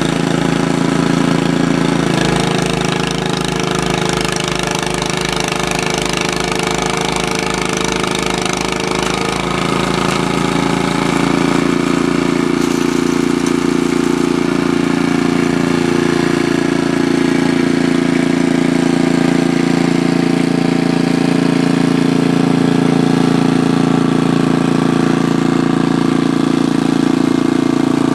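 An engine running steadily, its note shifting and growing louder about ten seconds in, as if it came under more load or sped up.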